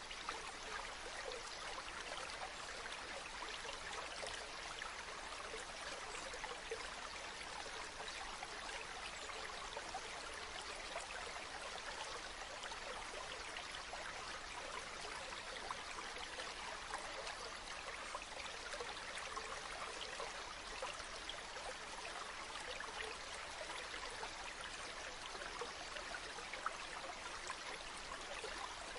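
Steady rush of running water, a stream or small waterfall pouring and splashing, with fine droplet patter and no change throughout.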